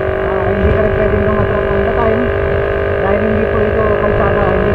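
Motorcycle engine running at a steady cruise, a steady hum over a rough low rumble.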